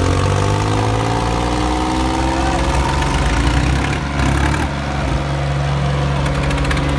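Diesel tractor engine running, its pitch rising over the first few seconds as it is throttled up, then holding steady.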